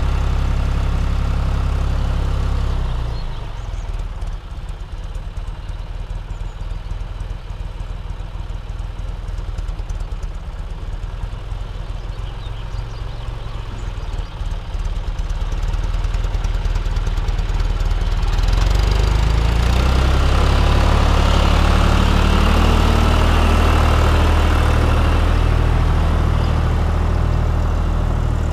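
Tractor diesel engine running while ploughing. About three seconds in it drops to a lower, quieter speed, and after about eighteen seconds it picks up again and runs louder to the end.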